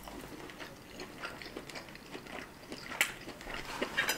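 People chewing mouthfuls of fried rabbit: soft crunching and mouth clicks, with a sharper click about three seconds in and a few more near the end.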